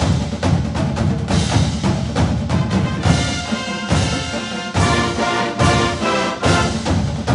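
Orchestral music with brass and heavy percussion, including timpani, and a steady driving beat.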